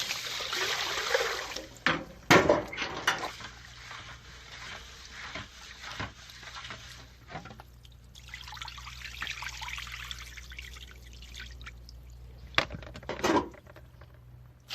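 Water poured or running into a bowl of rice to wash it, two spells of it, with a few sharp knocks of the container being handled in between and near the end.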